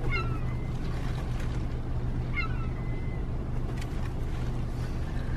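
Seagull giving two short, falling cries, one at the start and one about two and a half seconds in, over a steady low hum.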